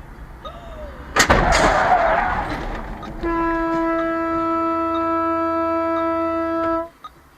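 A car collision: a sudden loud crash about a second in, with a second or so of crunching after it. Then a car horn sounds one steady note for about three and a half seconds and cuts off abruptly.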